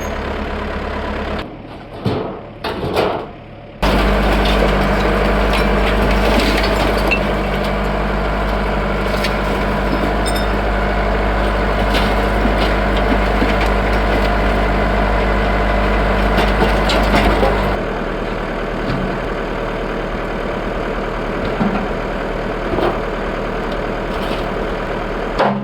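Diesel engine running steadily, with scattered sharp clanks and knocks over it. The engine drops out briefly near the start, comes back louder for about fourteen seconds, then settles to a lower, quieter running.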